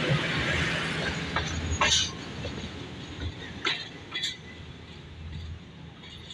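Passenger train running along the track, its rumble and hiss fading away, with a few sharp clacks about two, three and a half and four seconds in.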